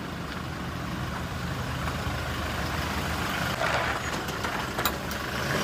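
Toyota Fortuner SUV's engine running at low speed as the vehicle moves off, a steady low hum that swells as it passes close near the end.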